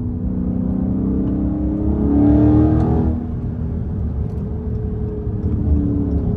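Straight-piped Dodge Charger Scat Pack's 392 (6.4-litre) HEMI V8 pulling under acceleration. The exhaust note rises in pitch and is loudest about two to three seconds in, then eases back to a steady cruise.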